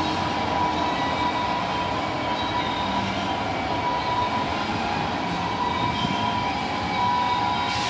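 Two freight trains on neighbouring tracks, one at full speed and the other barely moving: a steady rush of rolling railcars with sustained high wheel-squeal tones over it, and a brief sharp noise near the end.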